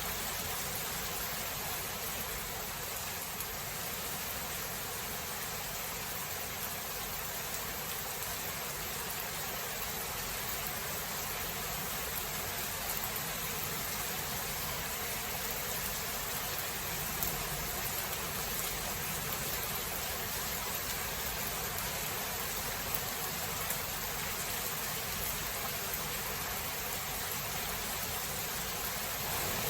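Steady rain falling, an even hiss with no thunder in it; a louder rumble of thunder begins right at the very end.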